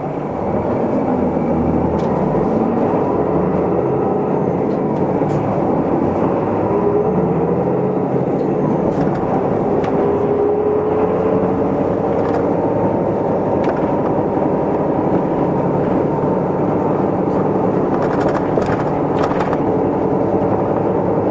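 Cabin sound of an Isuzu Erga Mio diesel city bus on the move. The engine note rises over the first several seconds as the bus gathers speed, then it runs on steadily, with a few small rattles and ticks from the interior.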